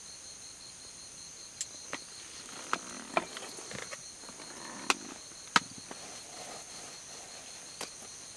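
Night insects, crickets among them, chirping steadily in high overlapping trills, one pulsing about five times a second. Scattered sharp clicks and knocks come over them from about a second and a half in, the loudest two near the middle.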